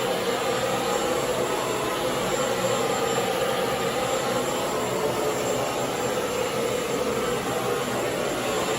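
Bissell PowerGlide Pet Slim cordless vacuum's motor running steadily, a constant rush of air with a hum and a faint high whine.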